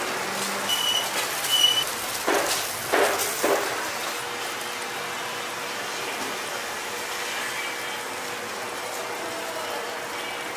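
Hotteok frying in oil on a flat griddle: a steady sizzle, with a few knocks about two to three and a half seconds in and two short high beeps near the start.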